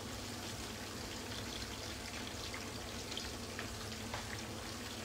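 Aubergine slices frying in oil in a frying pan: a steady sizzle with scattered small pops and crackles.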